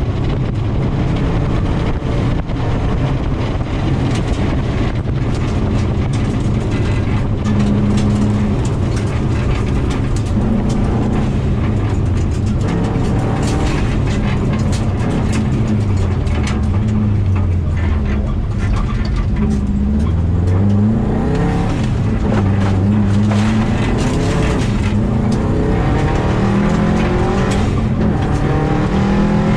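2000 Subaru WRX's turbocharged flat-four engine driven hard on a gravel rally stage, revving up and down through gear changes, with a marked drop then climb in pitch about halfway through. Gravel and stones clatter against the underbody in short sharp clicks throughout.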